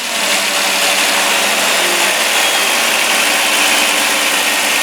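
2005 Dodge Caravan's 3.3-litre V6 running steadily just after starting up, with new spark plug wires fitted to cure a misfire; the owner says it runs great.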